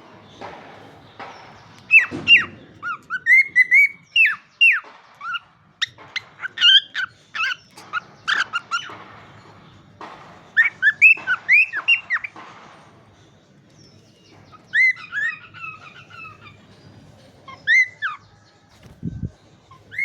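Cockatiel chirping: spells of short, quick chirps broken by pauses of a second or two. A dull thump about a second before the end.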